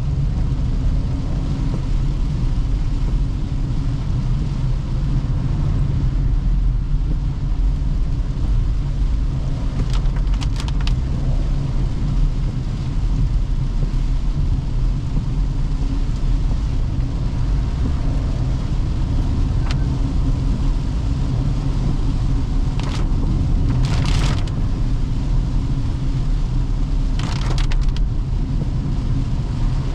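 Steady low rumble of a Toyota Hyryder 1.5-litre petrol hybrid SUV driving on the road, with a few brief hissing bursts about ten seconds in, around twenty-three to twenty-four seconds and near the end.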